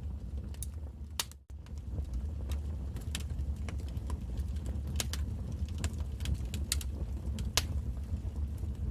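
Wood fire in a fireplace crackling: sharp, irregular pops and snaps over a steady low rumble. The sound drops out for a split second about a second and a half in.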